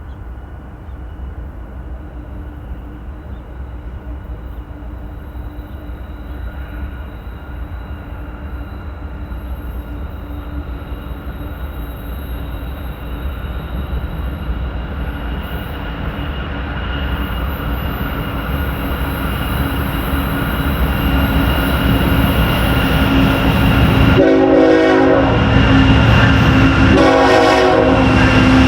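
A train approaching, its rumble growing steadily louder. Near the end the locomotive horn sounds twice.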